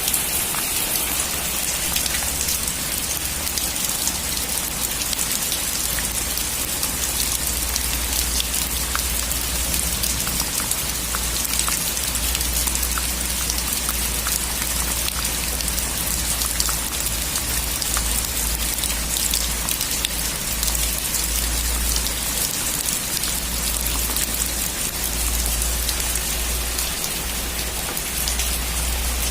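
Heavy rain on a metal roof: a steady hiss of rainfall studded with many sharp individual drop ticks, over a constant low rumble.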